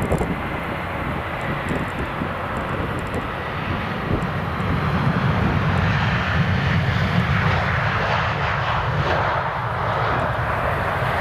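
Jet airliner engines running as a plane passes on its landing, a rushing roar that grows louder about halfway through over a steady low rumble.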